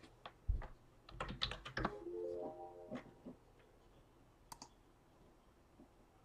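Computer keyboard typing and mouse clicks, a quick cluster of clicks followed by a few scattered ones, as a randomizer is set up. About two seconds in, a short run of electronic tones steps up in pitch.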